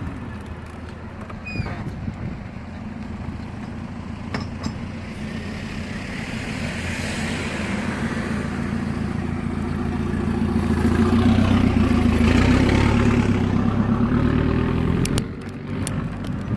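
Motor vehicle engine and road noise, building gradually to its loudest about three-quarters of the way through, then dropping away abruptly, with wind on the microphone.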